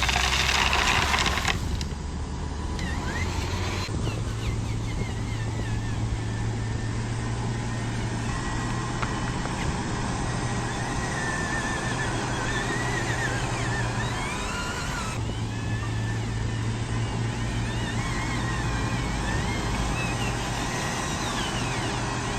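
Motors of RC construction models, such as the model dump truck, running with a steady hum. A louder, harsher noise stops about a second and a half in.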